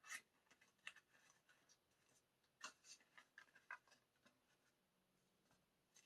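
Faint handling of paper and card packaging: a few soft rustles and taps, mostly in the first four seconds, over near silence.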